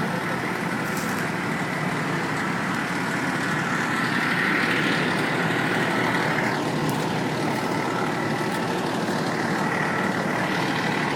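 Steady rumble of a large vehicle's engine idling. A hiss swells about four seconds in and stops abruptly a couple of seconds later.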